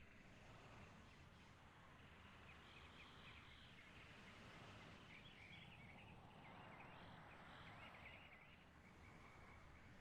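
Near silence: faint outdoor ambience with small, quick bird chirps from about two seconds in until near the end.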